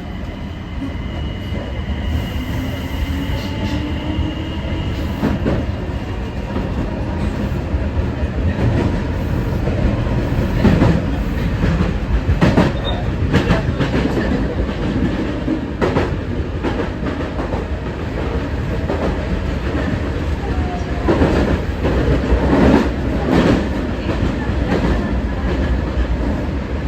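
Kita-Osaka Kyuko 9000 series electric train running. Its motor whine rises in pitch over the first few seconds as it picks up speed, then the wheels clack and knock over rail joints, most thickly in the middle and near the end.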